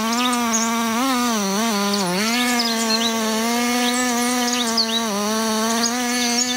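Chainsaw engine running at high revs, its pitch dipping briefly a few times as it takes load in the cut, then cutting off suddenly near the end. Birds chirp over it.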